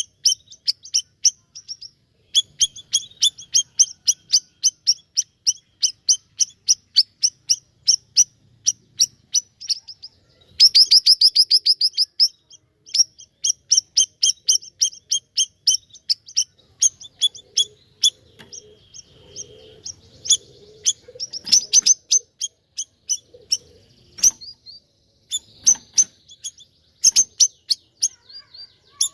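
Siri-siri songbird singing vigorously: long runs of sharp, rapid chirps, about five a second, broken by a faster trill about ten seconds in and a few brief pauses.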